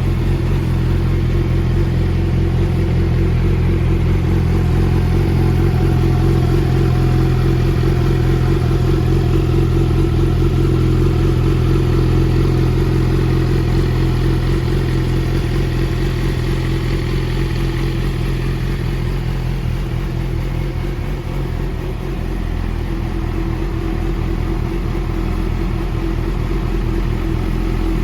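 A 2020 Yamaha YZF-R6's inline-four engine idling steadily through an Akrapovič race slip-on exhaust.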